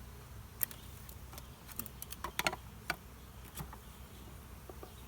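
Honeybees humming around an open hive, with about a dozen sharp clicks and knocks, most of them bunched in the first three and a half seconds, as the hive is worked.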